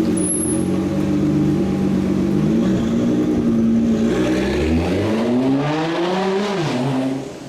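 Performance car engine running at low revs, then accelerating hard, its pitch rising for about two seconds before dropping sharply near the end as it pulls away.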